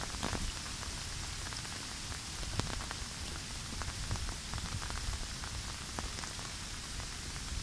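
Steady rain falling, with many small scattered drop ticks over a low wind rumble.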